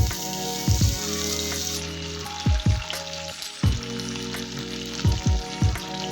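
Food sizzling steadily in hot oil in a pan, under background music with deep, repeated bass hits.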